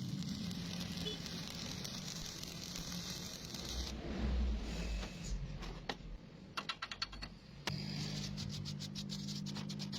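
Stick-welding arc crackling and hissing steadily, cutting out about four seconds in. After that come runs of quick sharp clicks and taps.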